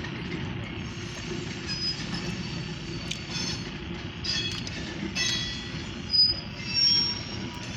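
Short freight train of grain hopper cars rolling by: a steady low rumble of wheels on rail, with brief high-pitched wheel squeals several times, the loudest near the end.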